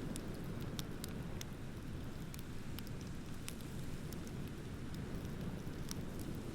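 Wood bonfire crackling, with sharp irregular pops and snaps several times a second over a steady low rumble.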